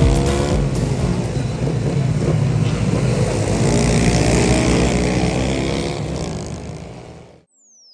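A pit bike's engine revving up and down as it is ridden, then fading out near the end. A single tone falls steeply in pitch just as it goes quiet.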